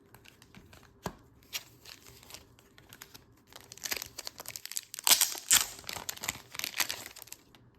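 Crinkling and rustling of handled trading cards and their plastic or paper packaging, with scattered light clicks. It is busiest and loudest from about four to seven seconds in.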